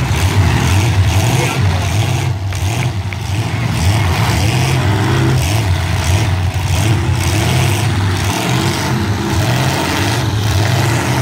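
Demolition derby trucks' engines running loud, revving up and down.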